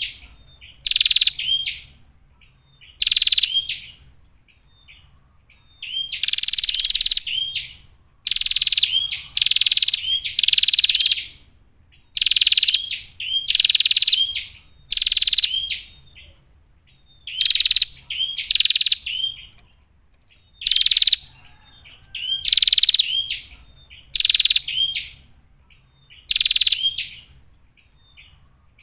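Female prinia (prenjak) calling: a string of short, buzzy chattering phrases, repeated roughly once every one to two seconds with brief pauses between them.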